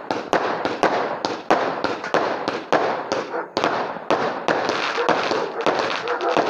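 Fireworks going off in rapid succession, about two to three sharp bangs a second, each trailing into crackling, with the crackle getting denser from about four seconds in.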